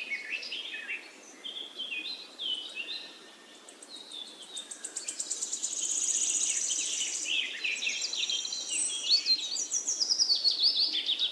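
Several small songbirds singing and chirping, overlapping phrases, with a fast buzzy trill about halfway through.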